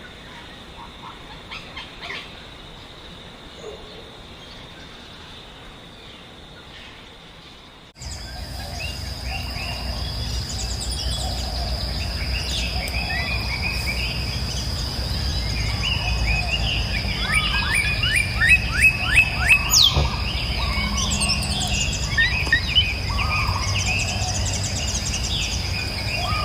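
Several wild birds chirping and calling over a steady high-pitched whine. About eight seconds in, the sound changes abruptly to a louder, busier chorus of chirps and trills with a low rumble underneath.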